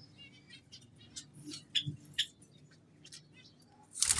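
Small aviary finches, zebra finches among them, giving many short high chirps and calls in quick, irregular succession. A loud rustling rush breaks in right at the end.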